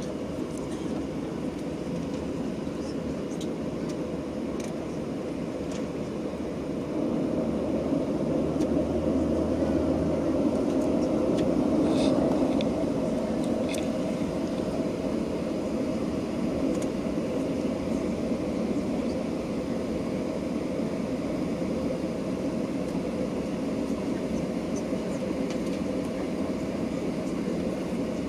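Steady cabin noise inside a Boeing 737-800 on the ground before takeoff, a low rush of engines and air conditioning. It swells for a few seconds about a third of the way in, then settles, with a few faint clicks.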